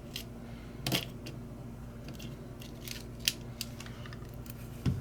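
Scattered light metallic clicks and ticks of small tools and parts being handled, about half a dozen over a few seconds, with a duller knock near the end.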